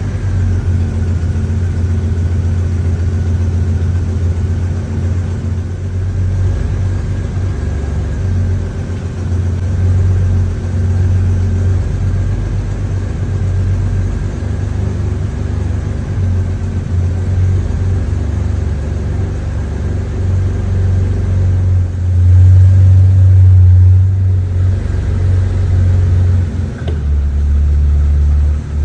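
BMW 750iL V12 engine idling just after a cold start, a steady low rumble. It grows louder twice, briefly, near the end.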